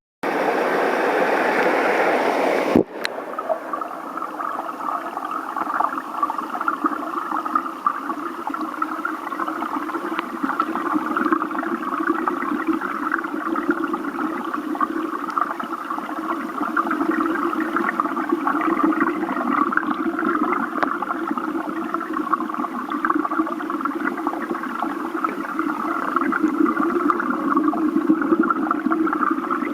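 Stream water flowing steadily over rocks. It is louder and fuller for the first three seconds, then after a sharp click settles into a slightly quieter, even rush.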